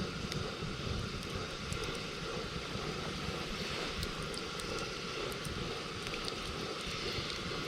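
Wood campfire crackling, with scattered small sharp pops over a steady low rumble.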